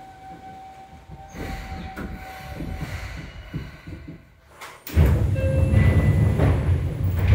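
Seibu 2000-series electric train coming to a stop, with a steady tone and rough running and brake noise that fade out. About five seconds in the doors open with a sudden loud rush that lasts to the end.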